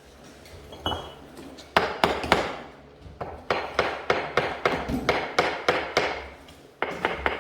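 Hammer striking repeatedly with sharp, ringing knocks: a few blows about two seconds in, then a steady run of about three to four blows a second, and a quick few more near the end.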